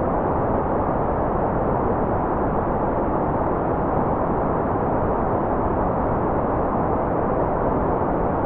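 Steady, unchanging white noise track: an even, muffled rush with most of its energy below about 2 kHz and little high hiss.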